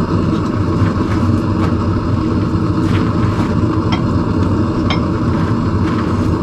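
A forge running with a steady low rumble, with a few faint light metallic clinks from the tongs and steel being handled.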